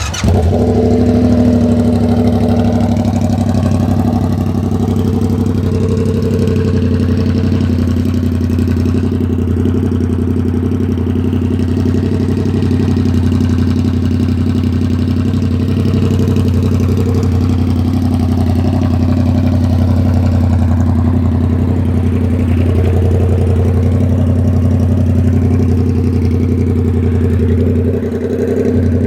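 2016 Yamaha FZ-07's parallel-twin engine, exhaust straight-piped, firing up just after the start and then idling steadily and loudly, with a brief dip in level near the end.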